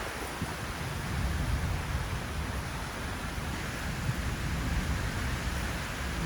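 Steady low rumble and hiss of thunderstorm weather, swelling slightly about a second in and again near the end.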